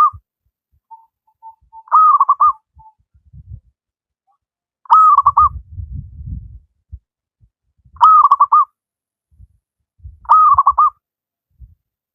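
Zebra dove (perkutut) cooing its rolling, trilled call four times, a few seconds apart, with the end of a fifth call at the start. Low rumbling noise is heard between some of the calls.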